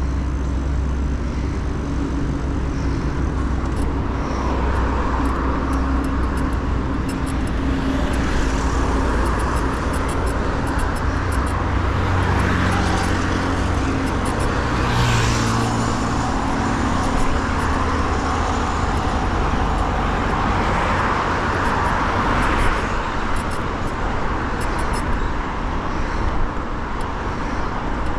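Road traffic heard from a moving bicycle: motor vehicles passing close, each rising and fading as it goes by, over a steady low rumble.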